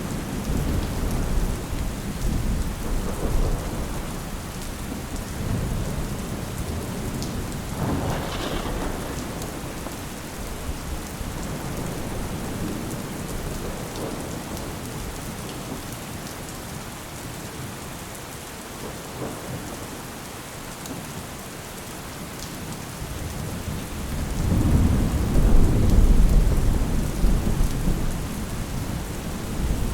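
Steady rain falling with rolls of thunder. A sharper thunderclap comes about eight seconds in, and a heavy low roll of thunder builds up near the end.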